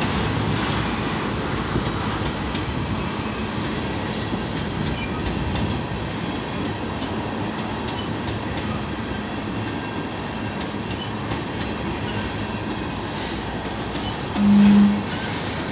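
Railroad tank cars of a freight train rolling past, a steady noise of steel wheels on rail with faint clicks. Near the end a short, loud horn-like tone sounds for about half a second.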